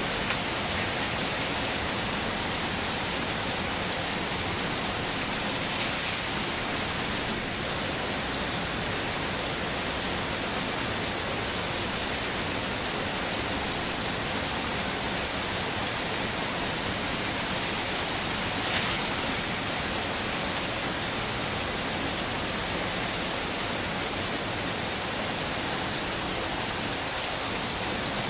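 Heavy rain falling steadily, a dense, even hiss. The top of the hiss dips out briefly twice, about seven and nineteen seconds in.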